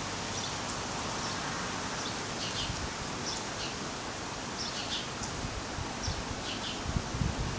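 Small birds chirping, short high chirps repeating every second or so over a steady rustling hiss, with a few low thumps near the end.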